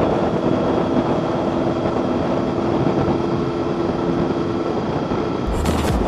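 Steady running noise of a moving vehicle, with a steady engine hum and road and wind noise. Near the end, music with a heavy bass comes in over it.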